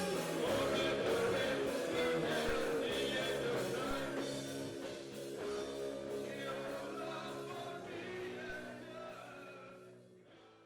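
Rock band music with singing, fading out steadily over the last several seconds.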